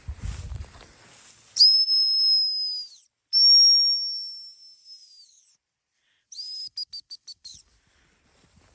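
Dog training whistle blown as commands to a bird dog in the field: two long steady blasts, then a quick run of about seven short toots.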